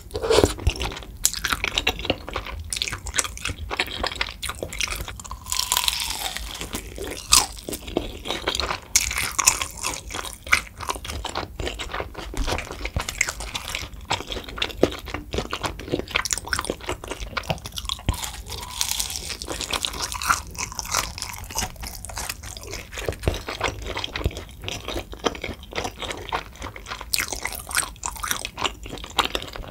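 Close-miked mouth sounds of eating: wet chewing of tteokbokki and fish cake in spicy sauce, mixed with crunchy bites of a fried seaweed roll (gimmari), a dense run of irregular crunches and clicks.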